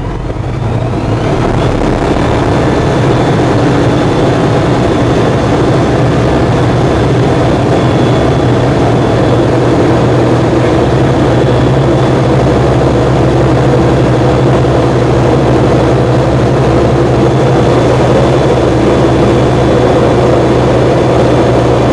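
ATEC 2000 light aircraft's propeller engine opening up to full take-off power over the first couple of seconds, then running steadily and loud.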